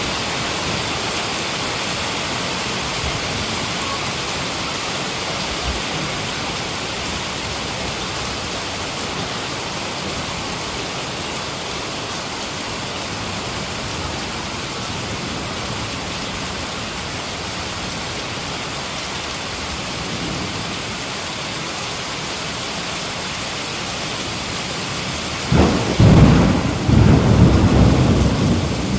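Heavy rain falling steadily. Near the end a loud clap of thunder breaks in suddenly and rolls on as a deep rumble.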